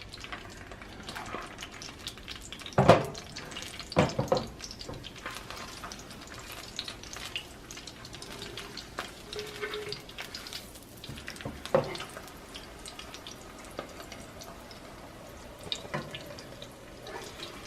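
Corn tortillas frying in a shallow film of oil in a pan, sizzling and crackling steadily. A few louder knocks come about three and four seconds in and again near twelve seconds.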